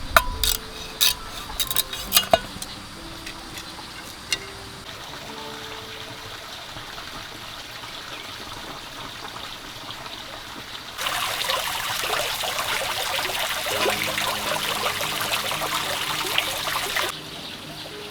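A few sharp knocks in the first couple of seconds, then water running or splashing loudly for about six seconds in the second half, stopping abruptly. Soft background music plays throughout.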